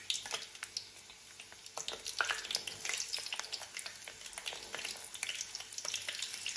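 Eggplant slices frying in hot oil: a dense, steady crackling sizzle full of small sharp pops as the slices are lowered in.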